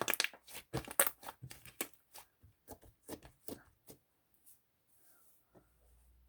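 A quick run of sharp small clicks and crackles, like something being handled or crinkled, that thins out and stops about four seconds in.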